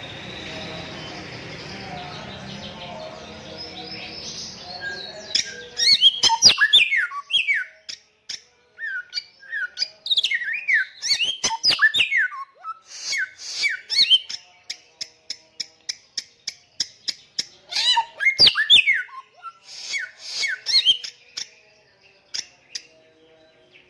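Bare-throated whistler singing: loud phrases of whistled notes sliding down in pitch, mixed with rapid runs of short repeated notes. The song starts about five seconds in, after a steady rushing noise, and continues in bursts with short pauses.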